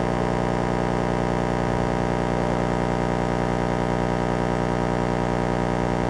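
Steady electrical mains hum and buzz with many overtones, pulsing with a fast, even flutter, from the audio recording chain.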